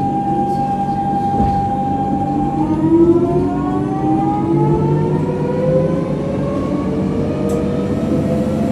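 Electric tram's traction motors whining, the whine climbing steadily in pitch as the tram accelerates, over a steady low rumble of the running gear. A steady tone gives way to the rising whine about two and a half seconds in.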